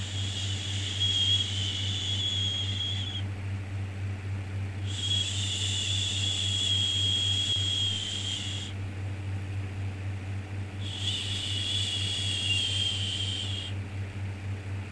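Repeated 'shhh' shushing for soothing a baby, each shush held about three to four seconds with short pauses between, three times and starting again at the end, over a steady low hum of background noise.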